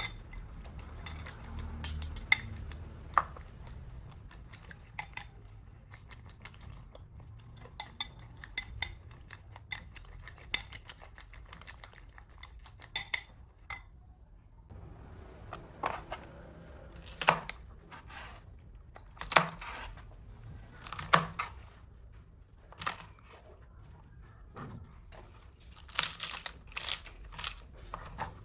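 Kitchen utensils clinking and knocking against dishes and pans in irregular taps, with a few louder knocks spaced a couple of seconds apart.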